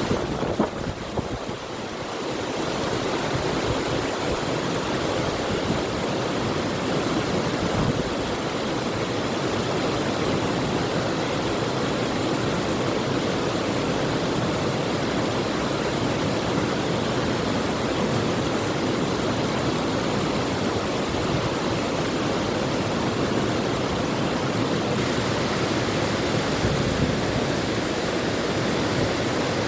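River water rushing steadily, a little uneven for the first couple of seconds before settling into a constant rush.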